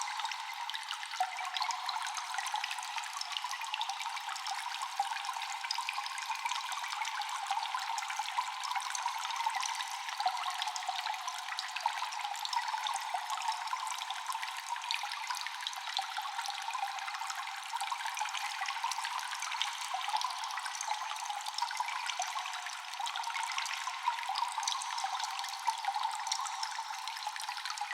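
Water dripping constantly in a cave, many small drops falling over a steady trickle, with an echo. The sound is thin and high, with no low rumble.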